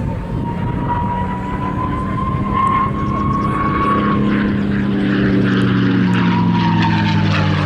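P-51D Mustang's Packard V-1650 Merlin V12 engine and propeller running in a display pass. A high whine rises and then falls away, and the engine note grows fuller and a little louder in the second half.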